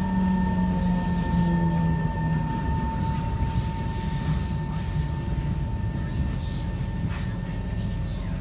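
Kawasaki C151 electric train running on the track, heard on board: the traction motor whine falls in pitch over the first couple of seconds as the train slows, over a steady rumble of wheels and rails. A steady high hum runs beneath it and stops near the end.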